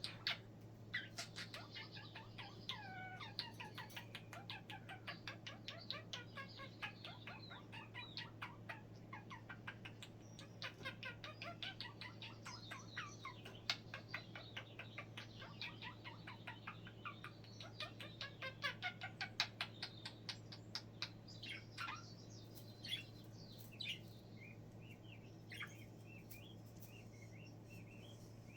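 Budgerigars chattering and warbling softly: a quick run of chirps, clicks and squeaky rising and falling notes, thinning to a few single chirps near the end, over a steady low hum.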